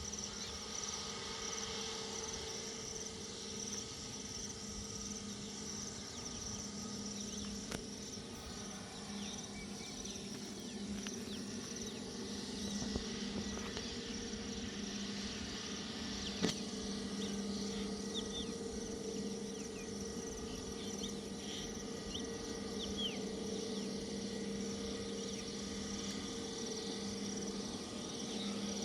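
Insects chirping steadily, with short higher chirps here and there, over a steady low hum.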